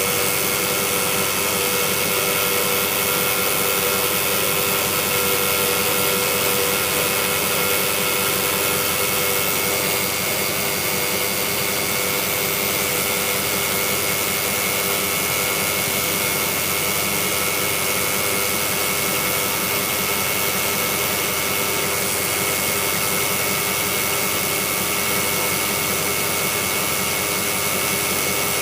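Jeep Grand Cherokee WJ idling steadily after a cold morning start, with a rattle that seems to come from the transmission bell housing of its 545RFE automatic. The rattle is a cold-start noise that dies away once the vehicle has run for a few minutes; its cause is not known.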